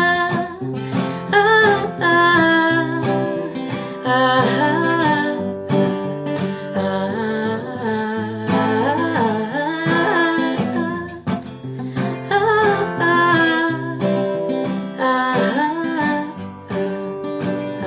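Acoustic guitar playing the closing bars of a song, picked and strummed.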